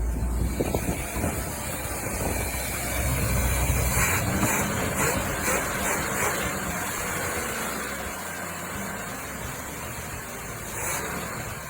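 Chevrolet 350 V8 swapped into a 1983 Jaguar XJS, idling steadily; its low rumble is strongest in the first four seconds, then eases off.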